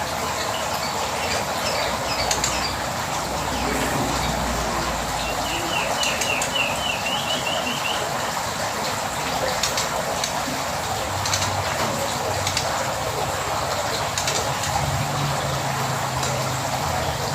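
Dense chatter of many caged songbirds calling over one another, with one bird's fast repeated trill standing out for a few seconds in the middle. A low hum joins in during the second half.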